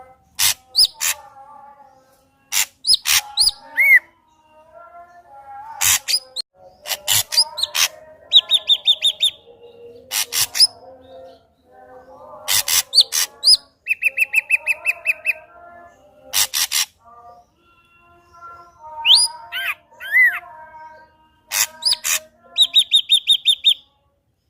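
Ashy drongo singing a loud, varied song in phrases with short pauses. It mixes sharp, whip-like notes, fast rattling trills of evenly repeated notes lasting about a second, and lower warbling passages.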